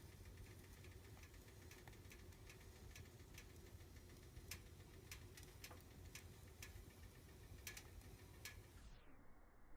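Faint crackling of a fire burning in a fireplace: irregular sharp pops and ticks over a low steady rumble. The crackles stop shortly before the end, when the sound turns dull.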